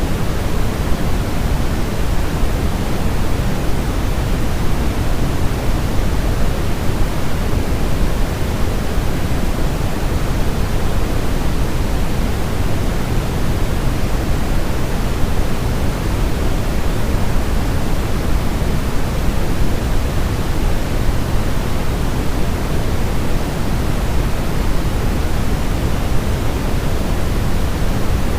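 Steady synthetic pink noise: an even, unbroken hiss, heavier in the low end than the high.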